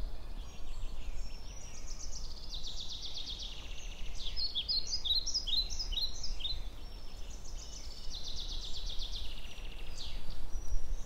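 Small songbirds singing: fast trills and a run of short, downward-sliding chirps, over a steady low background rumble.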